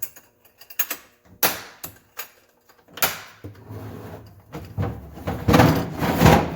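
Tools and cases being handled and moved about in a truck's tool box: a few sharp knocks and clunks, then a longer, louder stretch of scraping and rustling near the end.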